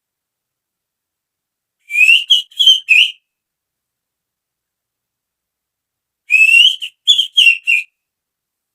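Hand whistling through the fingers imitating the call of a female oriental magpie-robin (kacer): two short phrases of four whistled notes, each opening with a rising note, about two seconds in and again about six seconds in.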